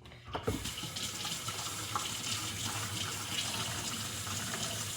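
Kitchen tap running into a sink while a utensil is rinsed under it, a steady rush of water that starts about half a second in.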